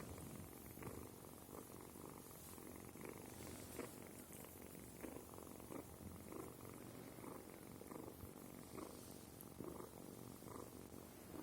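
Kitten purring faintly and steadily, with soft pulses about twice a second.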